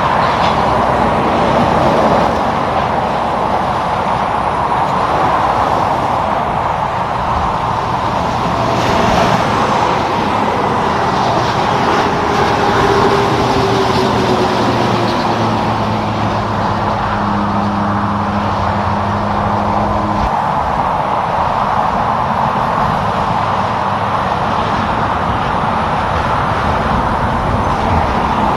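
Steady highway traffic noise from semi trucks: continuous tyre and engine roar, with one engine note dropping in pitch as a vehicle passes about halfway through.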